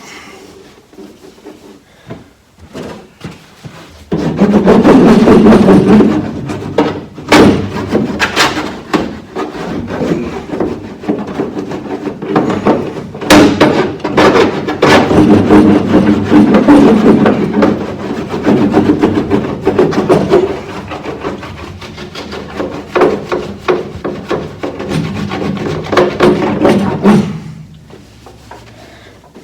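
Sound-deadening mat being rubbed and pressed down by hand onto the sheet-metal cab panel of a 1951 Ford pickup, a long stretch of scraping and rubbing with frequent sharp knocks. It starts about four seconds in and dies away near the end.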